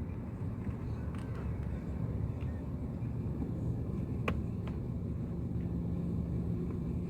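Low, steady rumble of distant jet aircraft engines, with a steady hum that comes in about five seconds in and a sharp click about four seconds in.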